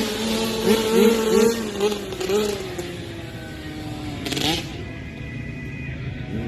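Motocross dirt bike engine revving up and down through the throttle, then falling in pitch and fading, with a short rising rev and rush about four seconds in before it goes quieter.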